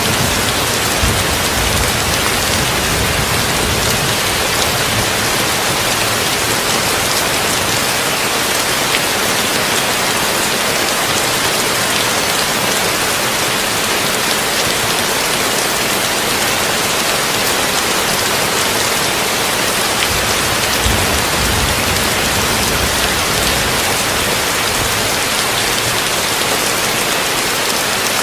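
Heavy rain drumming steadily on a tin roof, mixed with brown noise, with a low rumble about a second in and again about twenty seconds in.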